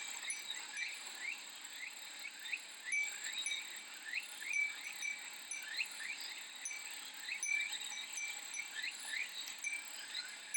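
Japanese glass wind chime (furin) tinkling over a steady, high buzz of cicadas, with many short rising chirps throughout.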